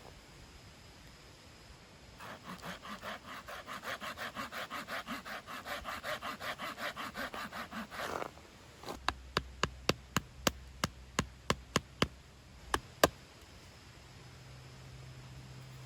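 Hand saw cutting through wood in quick, even strokes, about four or five a second, for about six seconds. Then a dozen or so sharp, separate clicks or cracks follow over about four seconds.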